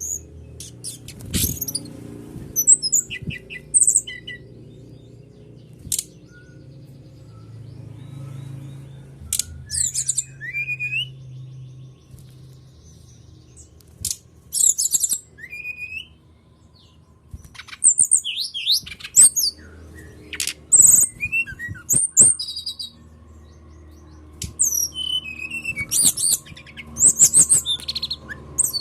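Songbird song played as a lure recording: bursts of quick high chirps and trills, with short pauses between phrases, over a faint low hum.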